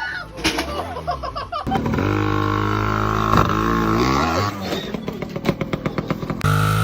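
A motorcycle-type engine running and revving up and down, then settling into a rapid, even putter.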